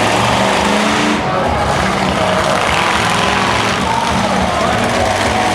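Monster truck engine running loud during a freestyle run.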